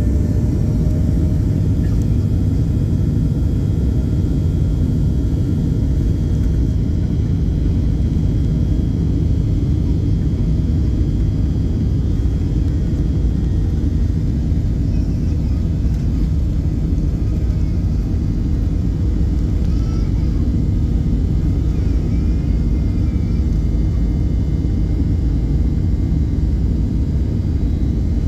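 Steady low rumble of a Boeing 737-800's engines and airflow heard inside the passenger cabin, with a few faint steady tones over it.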